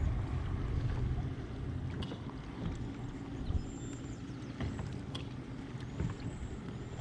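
Low rumbling noise on a fishing boat, strongest at the start and easing off, with a few light clicks and several faint, short high chirps.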